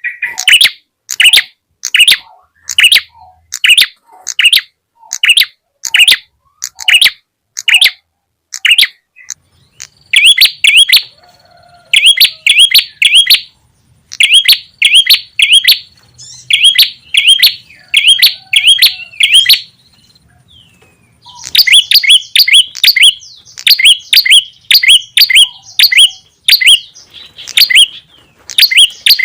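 Bird lure call of the prenjak tamu (red-headed prenjak). It opens with sharp, high chirps repeated about twice a second, then runs into quick chattering groups of three or four notes every couple of seconds. There is a short pause about twenty seconds in, followed by dense chattering near the end.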